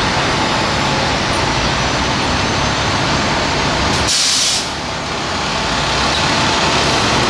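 Fire engine's diesel engine running steadily, with a short, sharp hiss of its air brakes about four seconds in.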